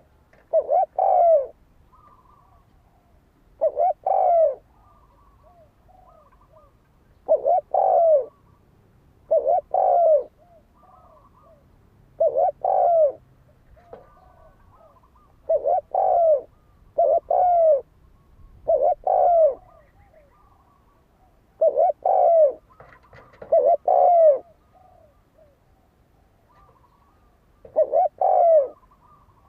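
Spotted dove cooing: short phrases of a few low notes, repeated about every two to three seconds, with softer notes between them. This is the challenge cooing that keepers play to rouse a decoy dove.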